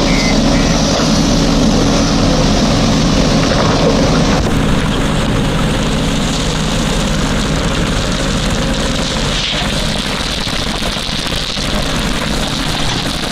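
Diesel engine of a JCB 3DX backhoe loader running hard while it works, a steady heavy drone with mechanical noise over it; the engine note eases a little about four seconds in.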